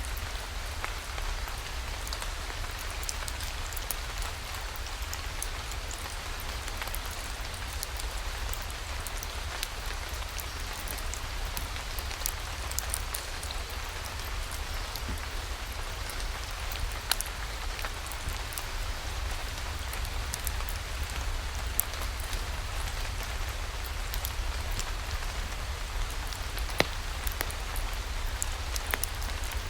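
Steady rain falling, with scattered sharp clicks of drops or crackles over an even hiss and a constant low rumble underneath.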